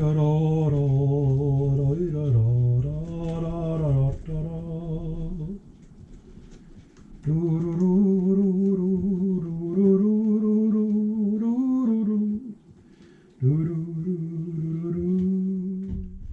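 A man humming a tune in three long phrases of held notes, with short pauses between them.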